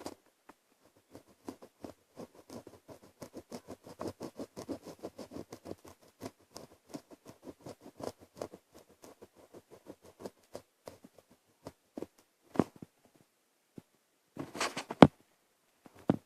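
Pen scribbling on paper in quick, short strokes, several a second, with a louder rustle and a sharp knock near the end.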